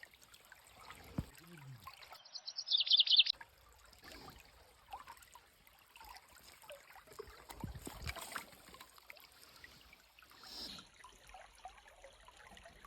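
Faint trickling of a shallow stream, with a short, rapid high-pitched bird trill about two seconds in.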